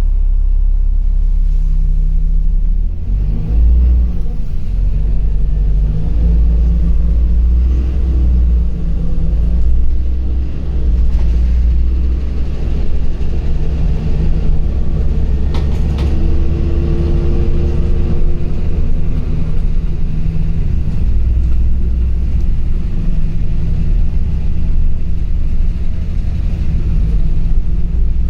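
LiAZ 5292.65 city bus driving: a steady low rumble, with the engine note rising and falling as it pulls away and changes speed.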